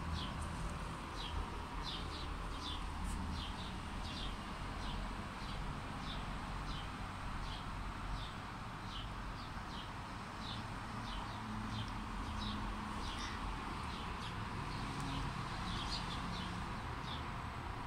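A small bird chirping over and over: short, high, falling chirps about two a second, with a low steady background rumble underneath.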